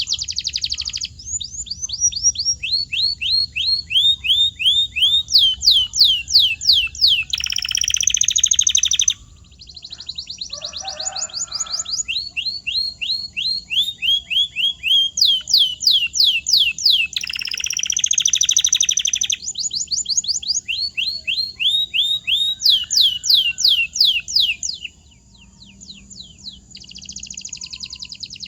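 Canary singing a long song of rapid repeated down-slurred notes in changing tours, with buzzing trilled rolls at about eight and eighteen seconds in.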